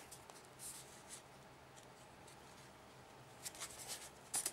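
Paper rustling and crinkling as an origami model is handled and folded: faint scattered crinkles, busier and louder in the last second.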